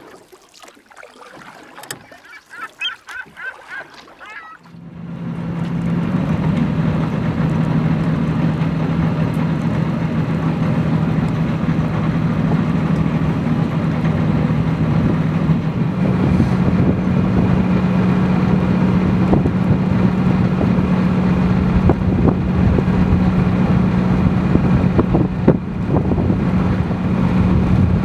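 A boat's engine running steadily, coming in about five seconds in after a few quieter seconds, with a slight rise in pitch past the middle.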